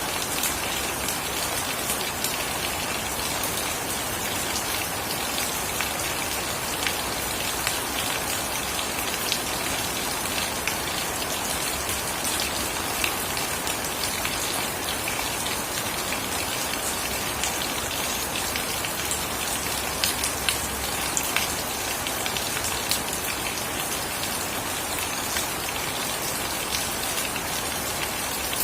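Steady rain falling, with many sharp individual drop hits scattered through it.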